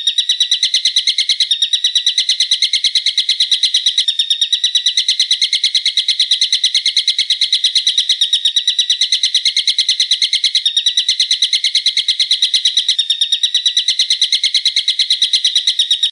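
A songbird calling a very fast, unbroken series of sharp, evenly repeated notes. The recording is looped for tutoring caged songbirds, with slight joins every few seconds, and it cuts off abruptly at the end.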